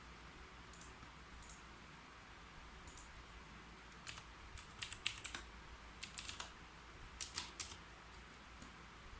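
Typing on a keyboard: a few single keystrokes, then short quick runs of keys with pauses between them, over a faint steady hiss.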